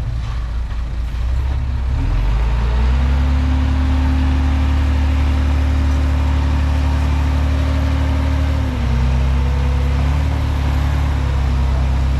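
Komatsu D31P bulldozer's diesel engine running, revving up about two seconds in and holding steady, then dropping briefly near nine seconds in before picking back up.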